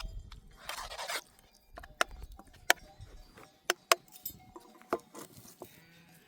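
Livestock bells clinking now and then, a handful of sharp metallic clinks spread out over a few seconds, with a brief rustle about a second in.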